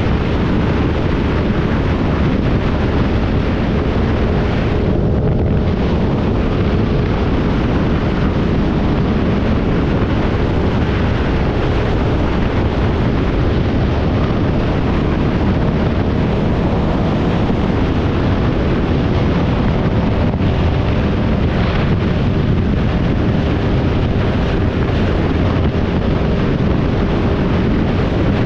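Loud, steady wind rush on the microphone of a moving motorcycle, with the engine running underneath.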